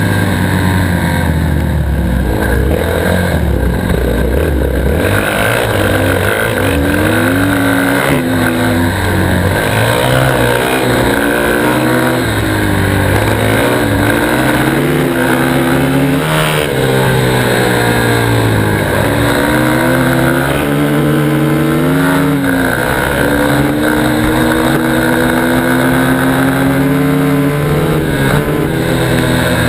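Dirt bike engine running hard up a hill climb, its pitch climbing through the revs and dropping back again and again as the rider shifts and works the throttle, heard from a helmet-mounted camera.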